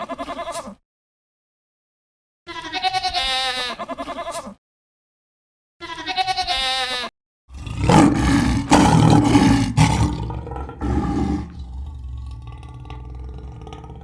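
Three short wavering bleats with clean cuts of silence between them. About halfway through comes a louder, rough, noisy call from a larger animal, lasting about four seconds. It fades into a fainter, low rumbling sound.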